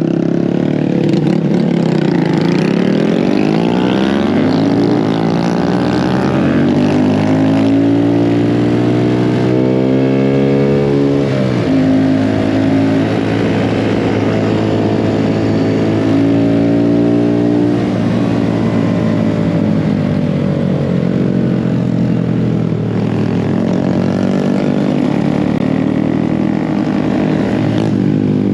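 Small mini bike engine running under way, its pitch climbing as it revs up over several seconds. About eleven seconds in it drops sharply when the throttle comes off, then holds fairly steady, with another dip and climb later on.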